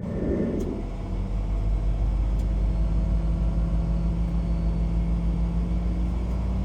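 Semi-truck's diesel engine running steadily with a low, even rumble.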